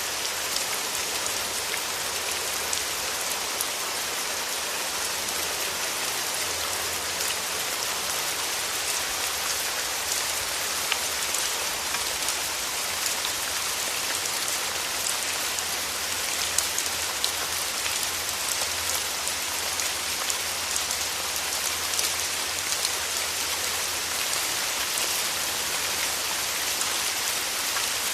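Steady rainfall, an even hiss of rain with many small drop ticks on a surface and no change in intensity.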